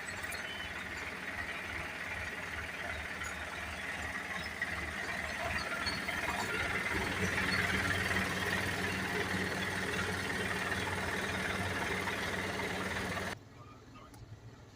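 Isuzu garbage truck's diesel engine running, with the engine note rising and steadying about six seconds in. The sound cuts off suddenly shortly before the end.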